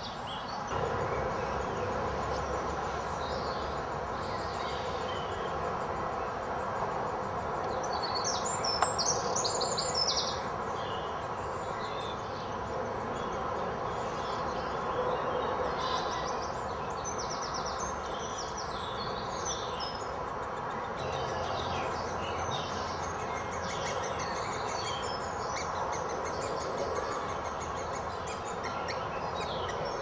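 Small birds chirping in quick high-pitched bursts, loudest about eight to ten seconds in and frequent through the second half, over a steady background hiss.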